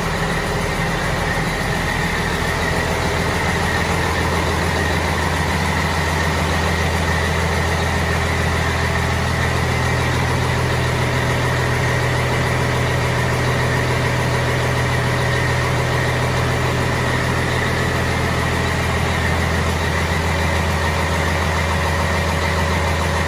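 Caterpillar C-12 inline-six diesel engine running at a steady speed on a dynamometer.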